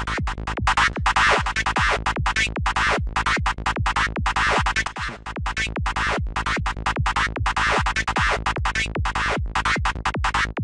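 Dark FM-style psytrance lead synth patch in Native Instruments Massive playing a fast, even sequence of short repeated notes over a steady low bass, with the oscillator unison being dialed in.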